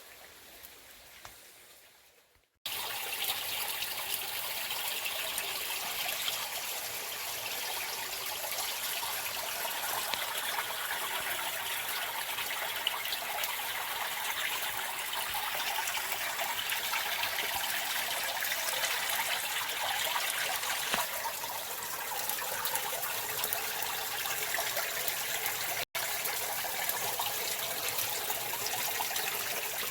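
Steady rush of flowing stream water, starting abruptly about two and a half seconds in, with a momentary break near the end.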